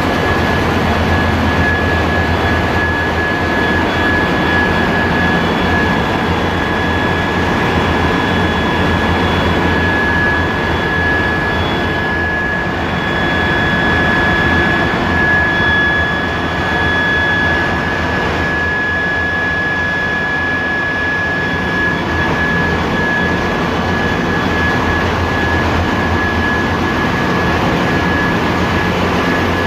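Ship's engine room machinery running: a loud, steady diesel-machinery din with a deep hum underneath and a steady high-pitched whine on top.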